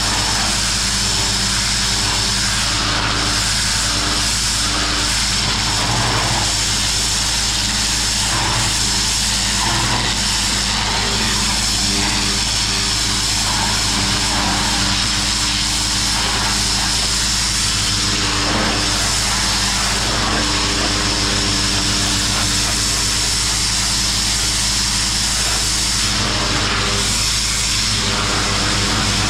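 Pressure washer running steadily: the drone of its motor and pump under the constant hiss of the high-pressure water jet blasting grime off concrete.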